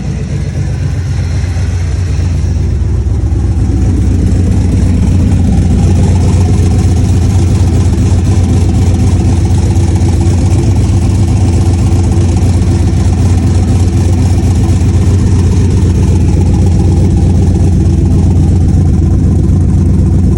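Engine running steadily with a low drone. It grows louder over the first few seconds, then holds at a constant level.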